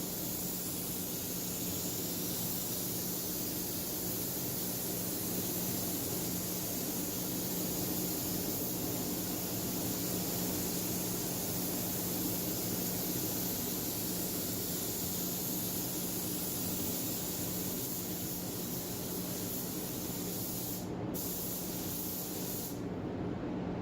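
Compressed-air paint spray gun hissing steadily as it lays on the final coat of clear, over a steady low hum. The spray stops briefly about three-quarters of the way through, then cuts off shortly before the end.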